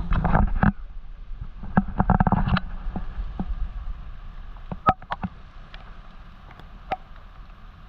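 Water sloshing and gurgling against the hull of a boat at sea, in two loud surges in the first few seconds, followed by quieter water noise with scattered sharp drips and taps.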